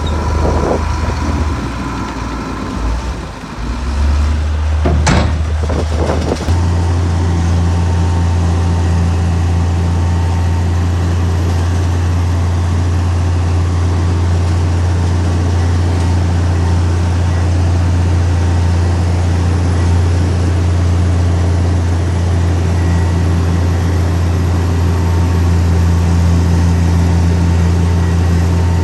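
Heavy diesel engine of earth-moving machinery running with a steady low drone. The level dips briefly about three seconds in, and a couple of sharp knocks come around five to six seconds in, after which the engine holds steady.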